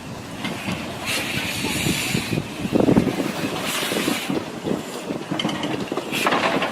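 Steam train rolling along the track: a steady low rattle and clatter of wheels and cars, with three bursts of steam hiss.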